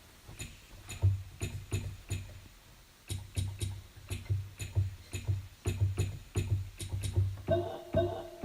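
Electronic beat from a synthesizer or keyboard preset: low bass thumps, each with a sharp click, repeating about two to three times a second. A sustained synth chord comes in near the end.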